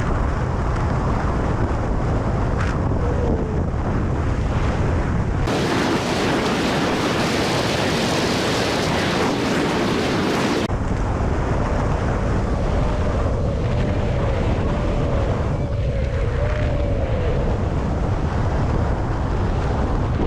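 Steady road and wind noise of a moving car with a deep rumble, recorded by a dashcam. For about five seconds in the middle it switches abruptly to a brighter hiss with little rumble. A faint wavering whine comes and goes in the second half.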